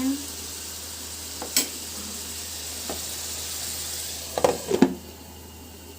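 Chicken pieces with onions and masala sizzling in a pan while being stirred, with a spatula knocking against the pan a few times. Near the end comes a quick cluster of knocks on the pan, then the sizzling quietens.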